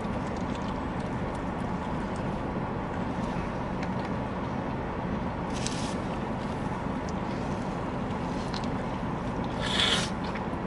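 Steady low rumble of a car heard from inside the cabin, with two brief rustles, one about halfway through and one near the end.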